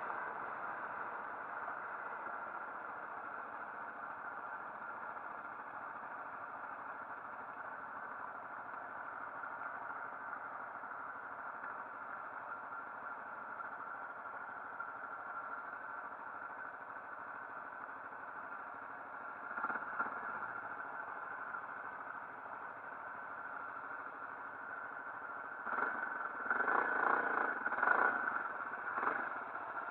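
Motorcycle engine running steadily, with a brief louder burst about twenty seconds in and a louder, rattly stretch near the end.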